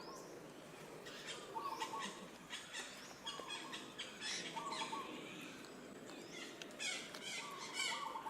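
Birds calling: short harsh calls repeating throughout, with a lower trilled note coming back every second or two.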